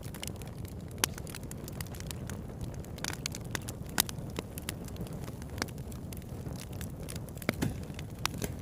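Wood fire burning: a steady low rumble with scattered sharp crackles and pops of burning wood, the loudest pop about four seconds in.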